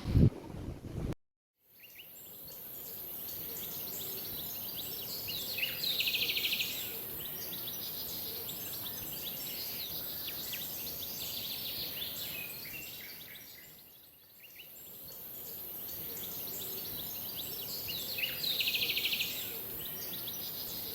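Outdoor ambience of birds chirping and trilling over a steady high hiss. It fades out and back in about two-thirds of the way through, the same stretch of chirps repeating.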